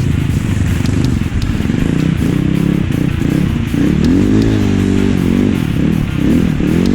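Enduro motorcycle engine running under load, its pitch rising and falling as the throttle is worked.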